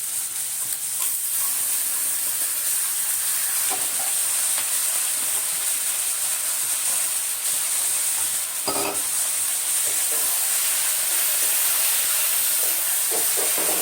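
Sliced potato and green banana with spice paste sizzling in hot oil in a pan as they are stirred: a steady frying hiss with a few short, sharper sounds.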